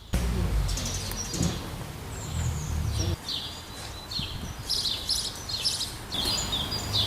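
Small birds chirping, many short high notes, most falling in pitch, over a steady low outdoor rumble.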